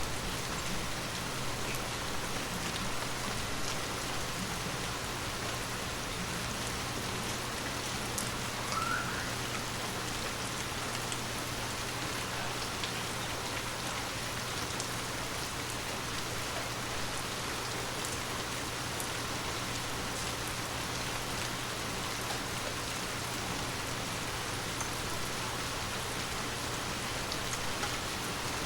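Heavy rain falling steadily: an even hiss with scattered sharp drop ticks, over a low steady hum.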